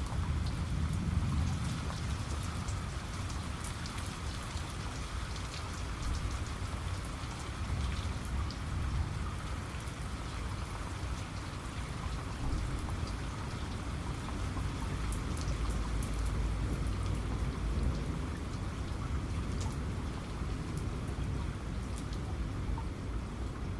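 Steady rain falling, with scattered sharp drop ticks over an even hiss and a continuous low rumble underneath.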